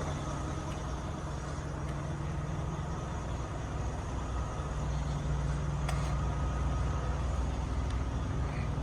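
Heavy diesel truck engine idling: a steady low rumble that swells slightly partway through.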